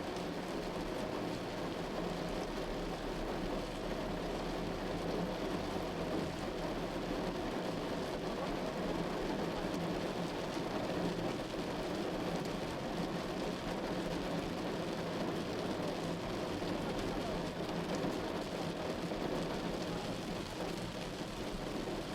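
Heavy rain falling on a moving car's roof and windshield, a steady hiss over a low, even rumble of road and engine noise.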